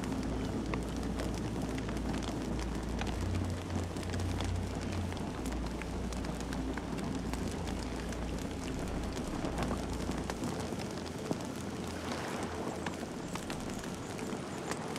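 Campfire burning with steady crackling and frequent sharp pops over a low rumble, which drops away about two-thirds of the way through.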